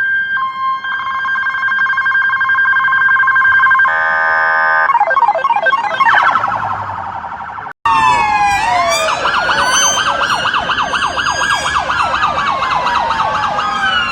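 Electronic police car sirens. Steady held tones for about four seconds give way to a short blast and then a fast yelp. After a sudden cut about eight seconds in, several sirens wail and yelp over one another.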